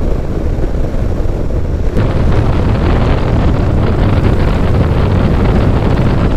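Wind rushing over the microphone of a moving motorcycle, with low road and engine noise underneath. About two seconds in the rush grows louder and brighter.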